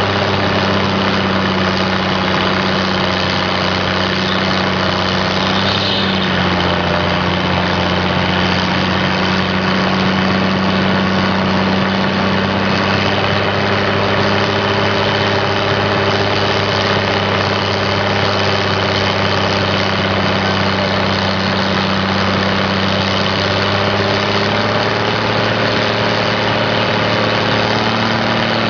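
Fordson tractor engine running steadily under test on a Heenan Froude dynamometer, its flywheel power being measured. The engine note dips slightly about six seconds in and picks up a little near the end.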